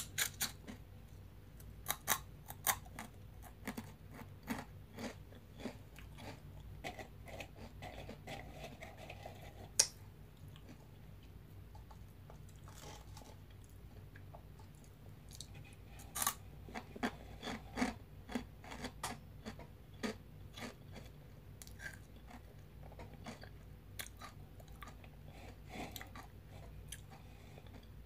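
Crunchy veggie straws bitten and chewed close to the microphone: irregular sharp crunches, thinning out for a few seconds in the middle, over a faint steady low hum.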